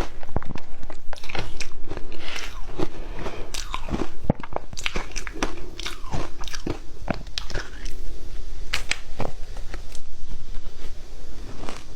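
Ice with matcha being bitten and chewed close to the microphone: a dense run of sharp, irregular crunches and cracks as the ice breaks between the teeth.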